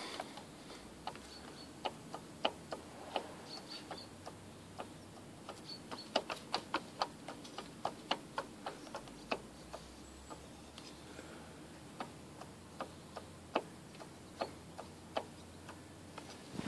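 Irregular sharp knocks, sometimes several a second and sometimes a second or more apart, from the drive-shaft (intermediate shaft) support bearing of a 2009 Ford Focus II facelift at about 100,000 km: the knock of a worn bearing.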